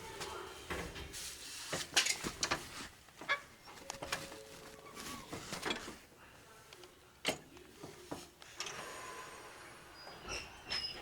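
Inside an 811 series electric train car as it moves off slowly: scattered clicks, knocks and creaks from the car, with a few brief faint tones near the end.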